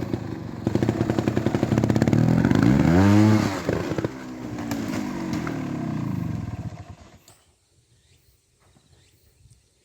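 Beta EVO trials motorcycle engine running with throttle blips, one rev rising and falling about three seconds in. The engine sound fades out after about seven seconds, leaving only faint ticks.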